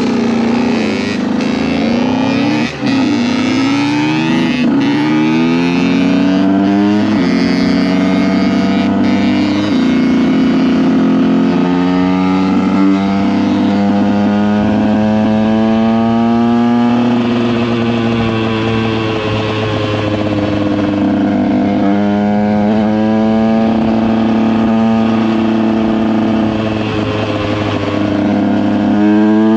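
Motorcycle engine under way, accelerating through several gear changes, its pitch climbing and then dropping at each shift, then holding fairly steady at cruising speed with small rises and falls.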